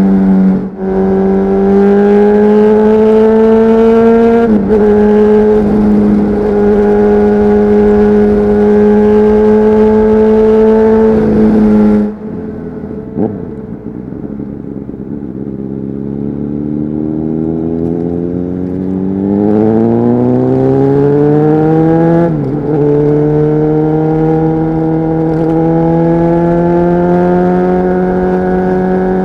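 Honda CBR600RR inline-four with a LeoVince exhaust, heard from the rider's seat. It holds steady revs with quick upshifts about a second and four and a half seconds in. The throttle shuts about twelve seconds in and the note drops and quietens, then it climbs again under acceleration with another shift a little after twenty-two seconds.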